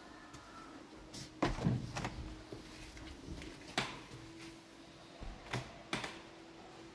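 A few scattered knocks and clatters over a faint steady hum, the loudest about one and a half seconds in.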